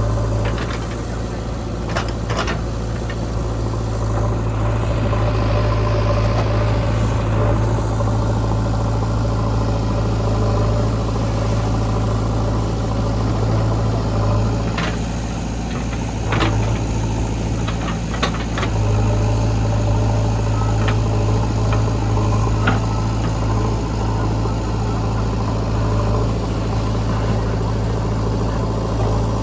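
Heavy diesel engine of earth-moving machinery running steadily at an even, low pitch, with a few short sharp knocks: two near the start and several more around the middle.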